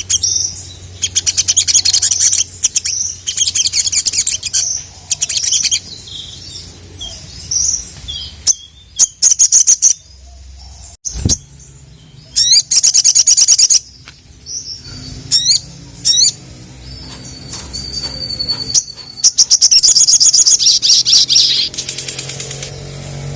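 Sogok ontong (sogon), a spiderhunter, singing hard in repeated bursts of rapid, high chattering trills, with one longer held high note about two-thirds of the way in. It is the sort of full, challenging song used to provoke rival sogon birds into answering.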